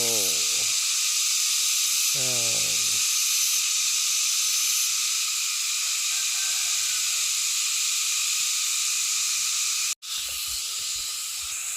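Steady, loud high-pitched chorus of forest insects droning, with two short calls that fall in pitch in the first few seconds. The sound cuts out for an instant near the end.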